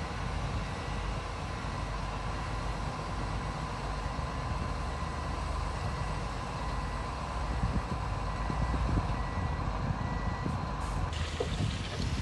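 Diesel engine of heavy construction machinery running with a steady low rumble. A faint high beep repeats at regular intervals over it, like a reversing alarm, and stops about ten seconds in.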